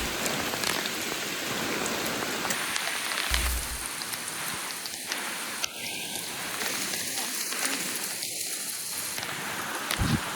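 Heavy rain falling steadily as an even hiss, with a couple of short low thumps, one about three seconds in and one near the end.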